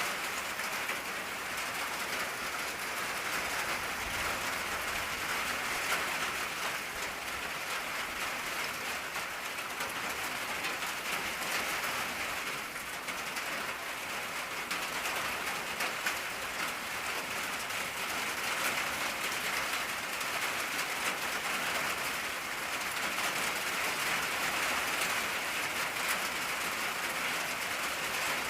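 Steady rain falling on an old tin roof: a dense, even patter of drops on the metal.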